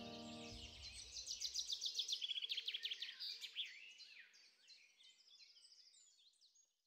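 Songbirds singing, a rapid run of high chirps and trills that is loudest a couple of seconds in and fades out toward the end. The last of the background music dies away in the first second.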